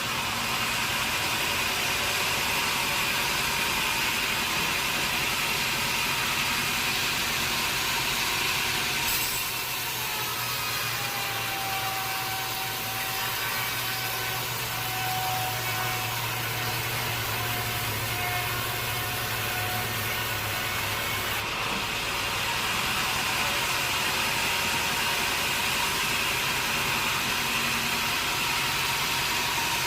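A sawmill saw running through teak wood, a steady loud cutting noise. Its higher pitched whine drops away for a stretch in the middle while a low machine hum carries on, then returns.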